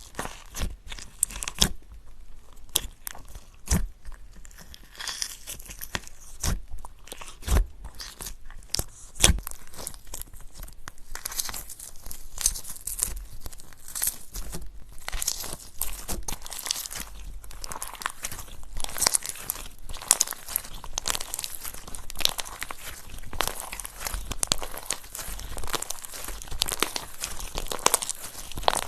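Slime being squished and stretched by hand, making dense, irregular sticky crackles and crunches that grow busier about halfway through.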